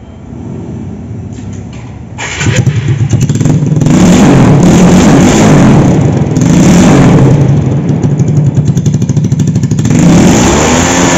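TVS Apache single-cylinder motorcycle engine running through its exhaust with the silencer baffle removed. It turns suddenly loud about two seconds in, then is revved up and down several times.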